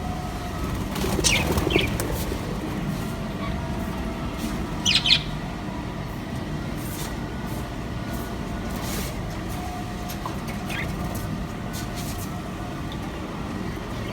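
Small caged parrots giving a few short high chirps, about a second in, again around five seconds in and faintly near the end, with wings flapping, over a steady low rumble.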